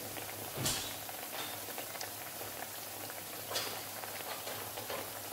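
Plantain slices frying in hot oil in a pan: a steady sizzle and crackle of bubbling oil, with two louder pops about two-thirds of a second and three and a half seconds in.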